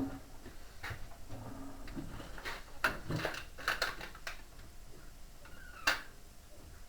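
A series of separate knocks and clinks from tools and washing-machine parts being handled during reassembly, with a sharp knock about six seconds in.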